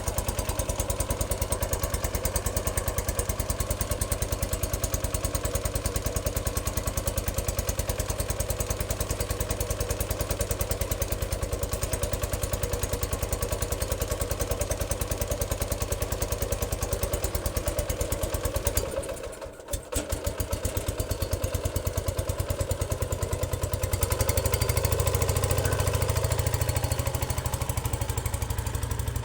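Cub Cadet 107's 10 hp Kohler K241 single-cylinder engine running just after a cold start, with no choke and a carburettor out of adjustment. About two-thirds of the way through it sags and nearly stalls for a second, then picks back up and runs louder.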